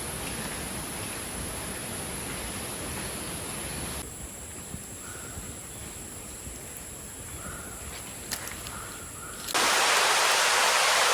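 Steady rushing outdoor ambience that cuts to a quieter forest background with a few faint short animal calls, then about nine and a half seconds in heavy rain starts up suddenly and loudly.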